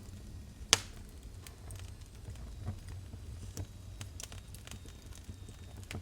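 Wood fire crackling, with irregular sharp pops and snaps over a low rumble; one much louder pop comes just under a second in.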